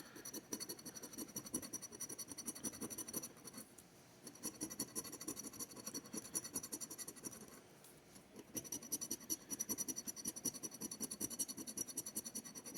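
Scratch-off lottery ticket being scratched, a rapid back-and-forth scraping of the latex coating. It pauses briefly twice, about four seconds in and again about eight seconds in.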